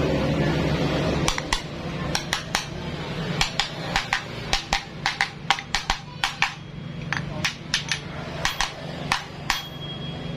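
Irregular sharp metallic taps and clinks, a couple of dozen over several seconds, over a steady low hum: hand tools knocking against metal motorcycle engine parts during assembly.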